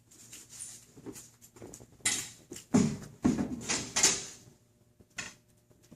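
Glass shelves being handled and set into a knock-down display showcase: light handling noises, then a cluster of knocks and scraping about two to four seconds in.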